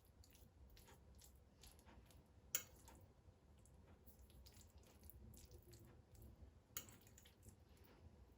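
Near silence with faint scattered clicks and light handling noises, and two sharper clicks, one about two and a half seconds in and one near the end.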